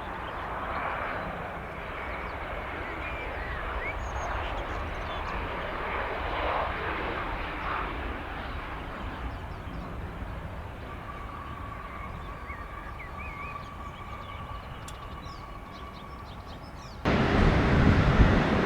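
Jet airliner engines with a steady rushing sound and a faint steady whine. About seventeen seconds in, a much louder rushing noise cuts in suddenly, like wind buffeting the microphone.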